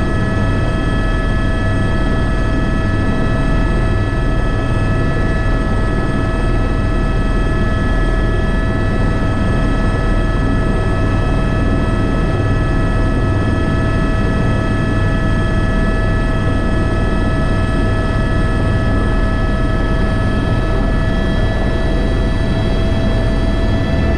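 Airbus H125 (AS350 B3) helicopter in flight, its single turboshaft engine giving a steady whine of several fixed high tones over the low rumble of the rotor. The sound holds level throughout.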